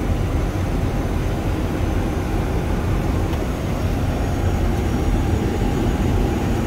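Steady rumble of air and engine noise inside an airliner's cockpit on final approach, with landing gear and flaps out.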